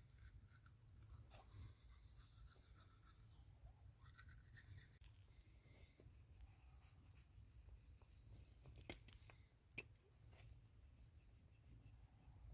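Faint scrubbing of a Wisp disposable mini toothbrush on teeth, in short scratchy strokes through the first few seconds, then a few light clicks.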